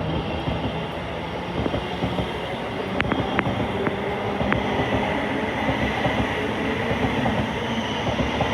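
Thameslink Class 700 electric multiple unit running through the station, a steady rumble of the train, with a few sharp wheel clicks over rail joints around three to four seconds in and a faint high whine from about five seconds.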